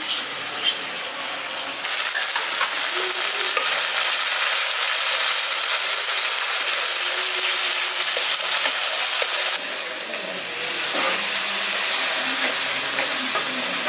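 Masala of oil, ghee and yogurt sizzling in a kadai on a gas burner as cashew paste thinned with water goes in and is stirred with a wooden spatula. The sizzle gets louder about two seconds in and dips briefly near the end.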